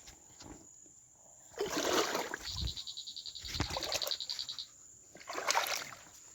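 Feet wading and splashing through shallow waterlogged ground, with a few louder sloshes. A high, rapid pulsing trill runs for about two seconds in the middle.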